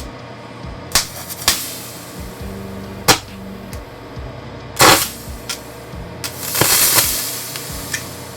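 Electrolytic capacitors bursting under overvoltage: sharp pops about one, one and a half and three seconds in, a louder bang about five seconds in, then a hissing rush about a second long as one vents.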